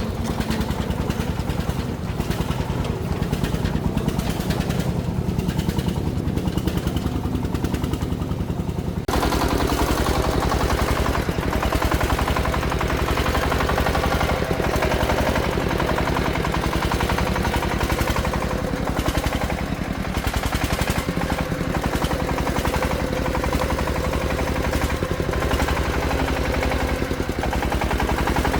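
Single-cylinder diesel engine of a công nông agricultural vehicle running with a steady, rapid chugging. About nine seconds in, the sound abruptly turns harsher and fuller and stays so.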